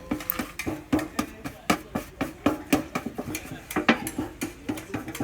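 Metal being struck over and over in quick, uneven blows, several a second, each leaving a short ringing tone.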